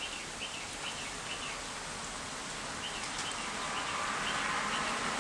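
Steady hiss of rain with a bird repeating a short chirp about twice a second; the rain noise grows louder near the end.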